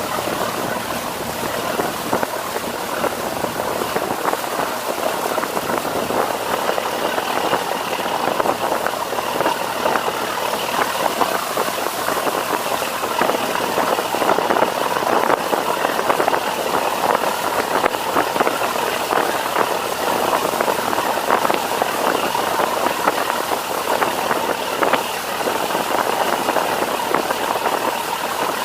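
Fishing boat under way: its engine running steadily under the rush and splash of water along the hull.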